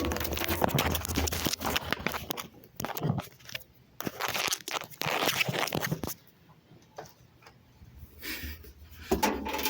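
Hair trimmer clattering and scraping inside a washing machine drum, in irregular bursts of crackling clicks, with a near-quiet stretch about six seconds in.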